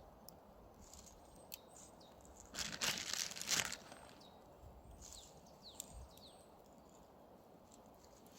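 A burst of rustling, crackling handling noise lasting about a second, a little before the middle, with a few scattered clicks. Several short, falling, high chirps follow, like a small bird calling.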